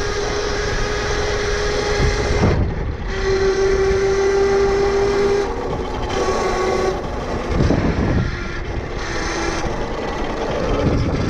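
Tuttio Soleil 1 electric dirt bike's motor whining at a steady pitch under riding, dropping away briefly about two and a half seconds in and coming back stronger, over wind rushing on a helmet-mounted microphone.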